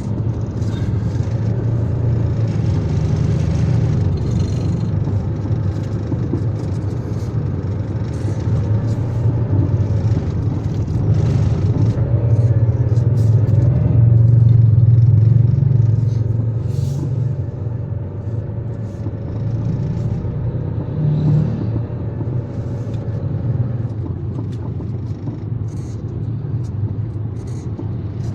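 A road vehicle running, a steady low rumble that swells in loudness around the middle and then eases off.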